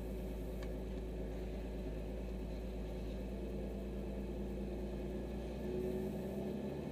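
BMW 325i rally car's straight-six engine idling steadily at a standstill, heard from inside the cabin.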